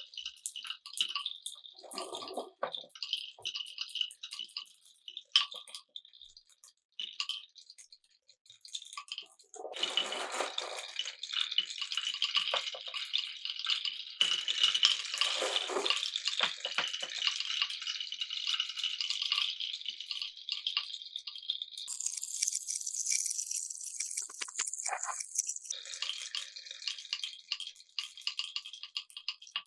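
Marbles rolling and clattering down a wooden marble run. Scattered separate clicks come first, then from about a third of the way in a dense, continuous rattle as many marbles run at once.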